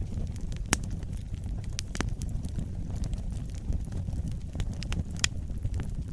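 Wood fire burning, a steady low rumble of flames with scattered sharp crackles and pops, the loudest about three quarters of a second in, at two seconds and near five seconds.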